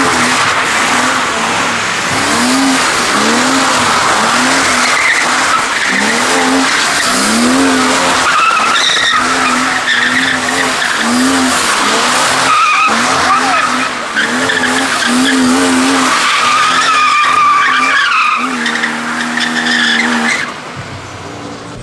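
A car drifting: its tyres screech while the engine revs up and down over and over in quick repeated pulls. Near the end the sound drops away.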